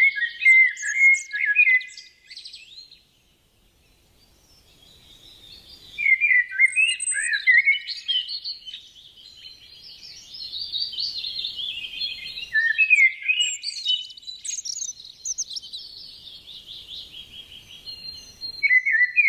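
Songbird song: a short run of quick, varied chirps, a pause of a few seconds, then a long unbroken stretch of rapid, varied high-pitched song lasting about twelve seconds, with a new phrase starting at the very end.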